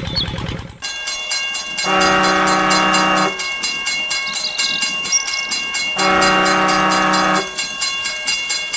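A train horn sounds twice, each blast about a second and a half long, over a steady, fast, rhythmic clatter of wheels on rails.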